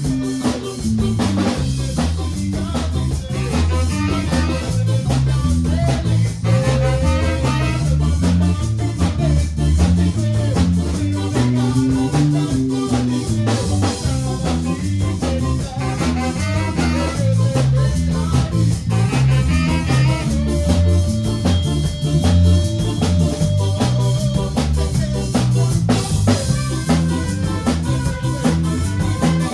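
Instrumental band music with a steady drum-kit beat, a strong bass line and guitar, in a ska-like style.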